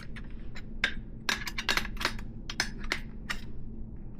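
Small metal parts clicking and clinking irregularly, about a dozen sharp light clicks, as cone nuts are worked by hand along a 3/8-inch solid BMX axle.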